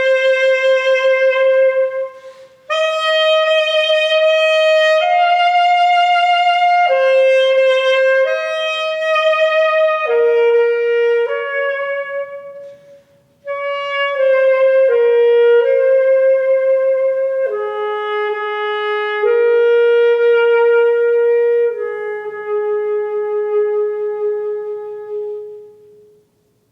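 A single wind instrument, unaccompanied, plays a slow melody of held notes in short phrases. The last note is held and fades away near the end.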